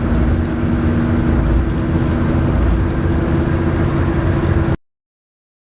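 Steady drone of a Scania K410IB coach on the move: diesel engine hum and road rumble heard from inside the passenger cabin. It cuts off suddenly near the end.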